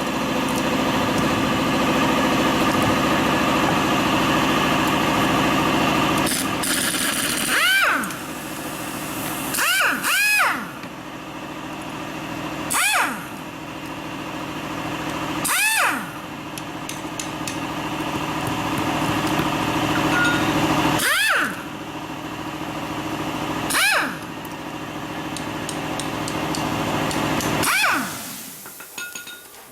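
Machinery running steadily with a dense mechanical hum, broken by about eight short squeals that rise and fall in pitch; it dies away near the end.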